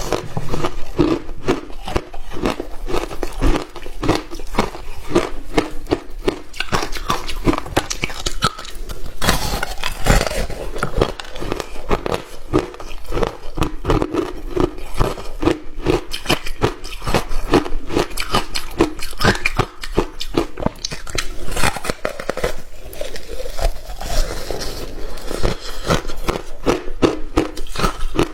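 Hard ice being bitten and chewed close to the microphone: a dense, continuous run of sharp cracks and crunches.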